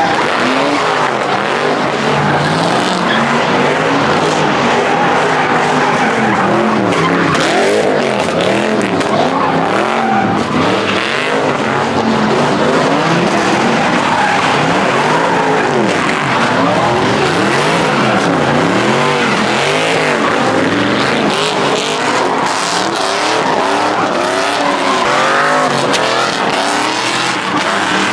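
Cars spinning donuts: engines revving up and down over and over while the tires squeal and skid continuously. Loud throughout.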